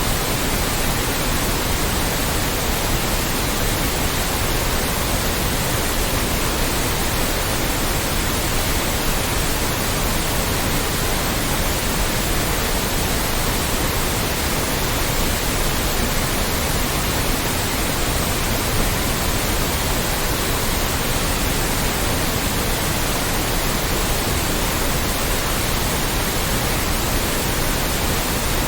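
Loud, steady synthetic white noise: an even hiss spread across all pitches, unchanging throughout.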